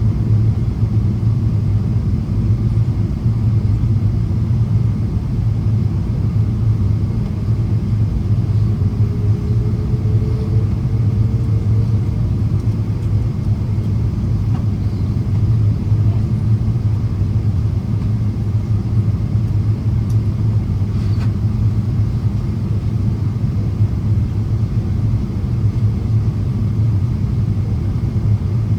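Steady low rumble of engine and airflow noise inside the cabin of a Boeing 777-200ER on its descent, with a faint tone that rises slightly for a few seconds about nine seconds in.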